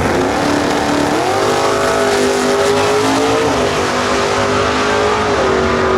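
Muscle car engine running loud under hard throttle on a drag strip, its pitch climbing in a step about a second in and again near the end.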